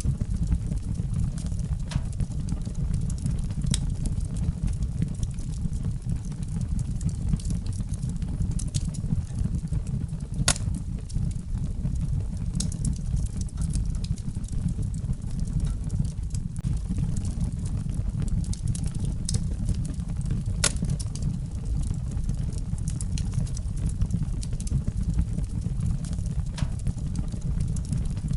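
Wood fire crackling in a fireplace: a steady low rumble of burning with scattered sharp pops and snaps, a few of them louder than the rest.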